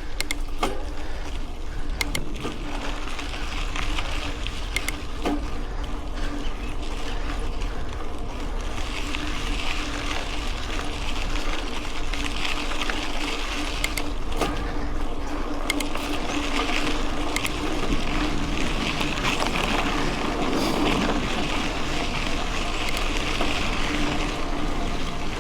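Mountain bike being ridden: steady tyre and drivetrain noise with scattered clicks and knocks, over a constant low rumble of wind on the microphone.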